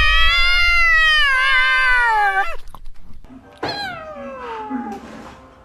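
A cat meowing: one long drawn-out meow held at a steady pitch, ending about two and a half seconds in, then a second meow about a second later that slides down in pitch.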